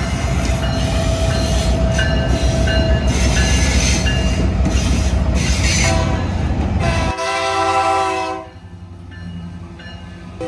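Diesel freight train passing close with a heavy low rumble while the locomotive's multi-chime air horn sounds; the rumble drops out about seven seconds in, the horn chord stands out clearly and stops about a second later, leaving it much quieter.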